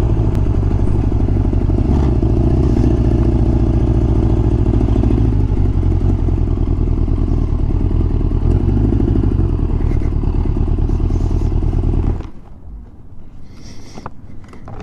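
1996 Kawasaki Ninja ZX-11's inline-four engine running steadily at low revs as the bike rolls slowly. The engine sound stops suddenly about twelve seconds in, leaving only faint sounds.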